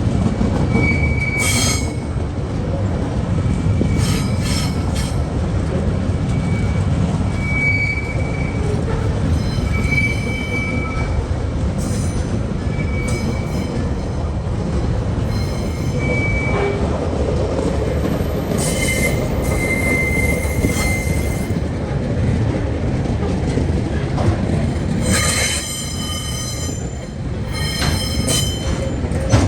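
TasRail freight train rolling past with a steady low rumble, its wheels giving short high-pitched squeals every second or two and a louder, harsher squeal near the end.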